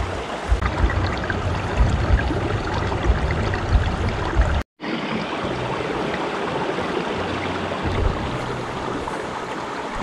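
Creek water flowing steadily, with low rumbling in the first half. The sound drops out completely for a moment about halfway through, then the flowing water continues.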